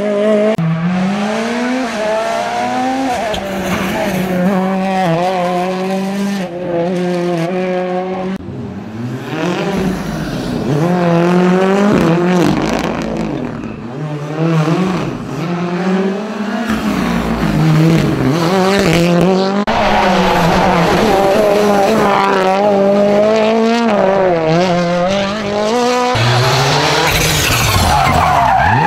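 Rally cars at full attack, engines revving hard, the pitch climbing and dropping again and again through gear changes and lifts, with tyre squeal.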